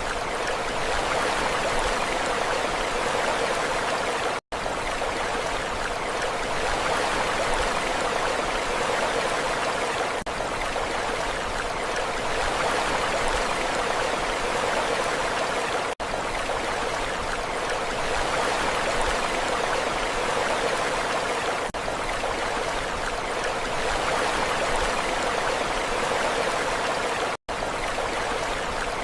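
Steady rushing water, an even hiss with no rise and fall of waves, cutting out for an instant twice.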